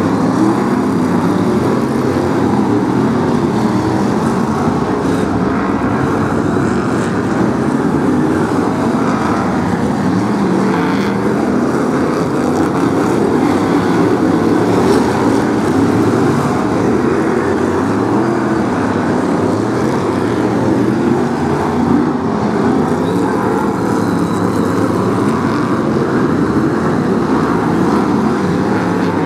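A pack of BriSCA F1 stock cars racing, their V8 engines running together in a dense, unbroken engine noise.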